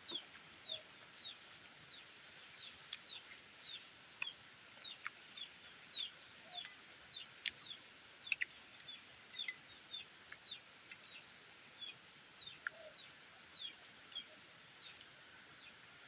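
Bird peeping: a steady run of short, high peeps, each falling in pitch, about two or three a second, with a few faint sharp clicks among them.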